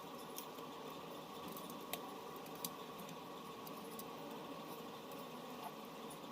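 A few sharp clicks and light taps, about four in six seconds, over a steady low hum: small tools and parts being handled while a phone is worked on.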